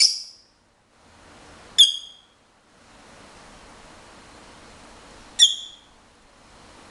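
Pet lovebird giving short, shrill chirps, three of them a few seconds apart.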